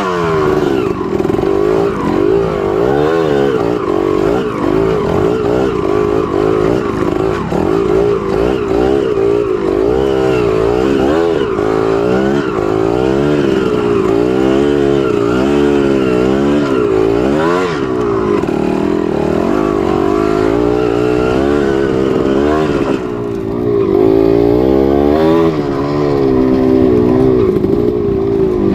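Trail motorcycle engine revving up and down over and over, the throttle opened and closed repeatedly as the bike works through rough ground.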